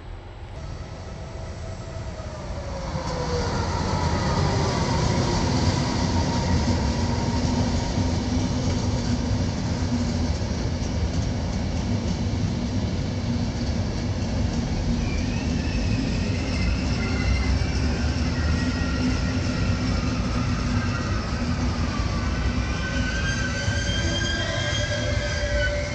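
Trenord regional train of low-floor coaches hauled by an E464 electric locomotive rolling slowly past on arrival, with a steady rumble of wheels on rail that builds over the first few seconds. From about halfway, several high squeals from the wheels come and go as the train slows.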